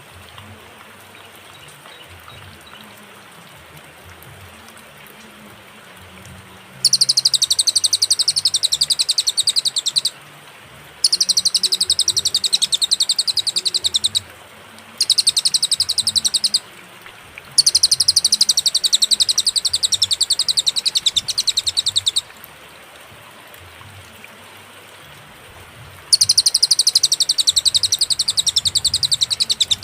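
Cililin songbird singing in five bouts of fast, high, rapidly repeated notes, each two to five seconds long, with pauses between them; the first bout starts about seven seconds in. A faint low background hiss runs underneath.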